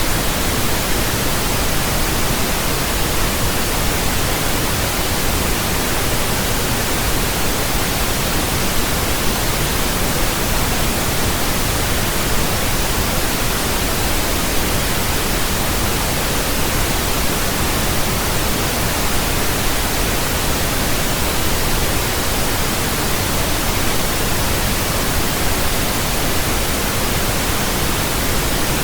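Steady pink noise: an even, unchanging hiss spread across all pitches, deeper than white noise.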